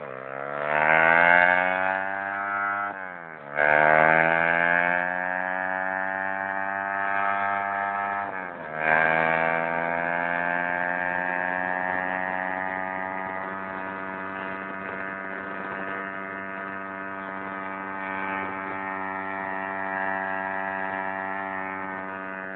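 Orion 110cc pit bike's small single-cylinder four-stroke engine accelerating hard: the revs climb and drop sharply at two upshifts, a few seconds in and about nine seconds in. It then holds a steady high note at full speed, slowly fading.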